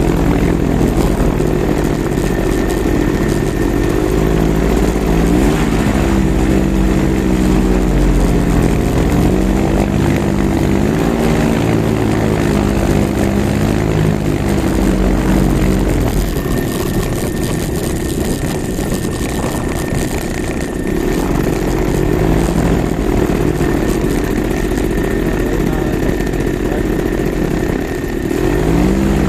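Simonini Mini 3 two-stroke engine running, its revs rising and falling several times. It drops lower for a few seconds midway and climbs again near the end.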